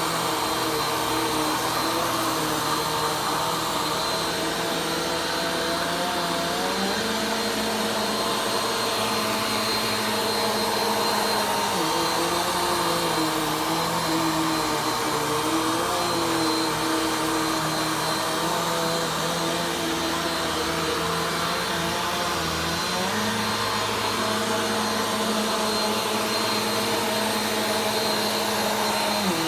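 Vacuum cleaner running steadily through a slow vacuuming pass, its motor note shifting slightly in pitch several times as it is worked.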